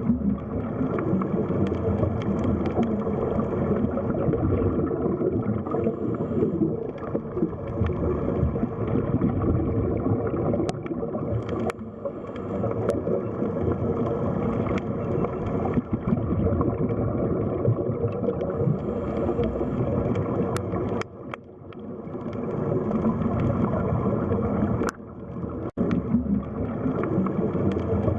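Underwater sea ambience: a steady, muffled wash of water noise, with a few faint clicks and two brief dips in level in the last third.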